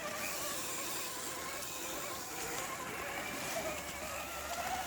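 Electric motor and drivetrain whine of an Axial SCX10.3 RC rock crawler crawling over slippery rocks, its pitch wavering with the throttle. A second, lower whine joins about three and a half seconds in.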